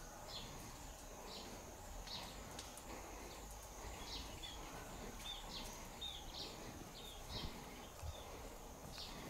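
Outdoor ambience with a small bird giving repeated short, high chirps, irregularly about once or twice a second, over a faint steady high hiss.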